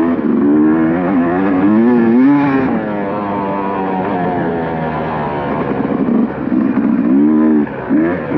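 Dirt bike engine revving up and down as the throttle is worked around a motocross track, with a brief throttle-off dip near the end.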